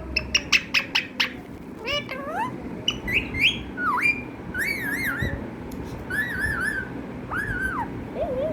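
Pet parrot calling: a quick run of about seven sharp, clipped chirps in the first second or so, then a series of whistled squawks that rise and fall in pitch.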